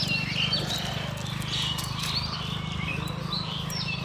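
Several small birds chirping and calling, many short quick chirps and pitch glides overlapping throughout, over a steady low hum.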